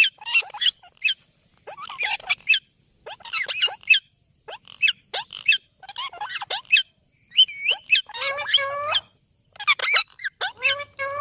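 Indian ringneck parrot squawking and chattering in short, shrill clusters with brief pauses between them, and a longer warbling call with gliding pitch about eight seconds in.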